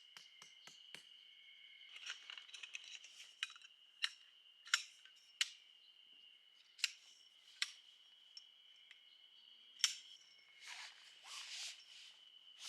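About six sharp clinks, spaced irregularly through the middle, with bursts of rustling near the start and near the end, over a steady high-pitched tone: gear being handled.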